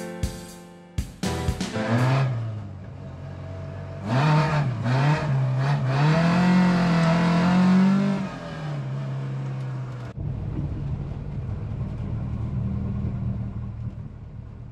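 Ford Escort Mk2 engine heard from inside the cabin, accelerating with its pitch wavering and climbing, loudest about four to eight seconds in, then settling into a steady engine and road-noise drone. Music fades out in the first second or two.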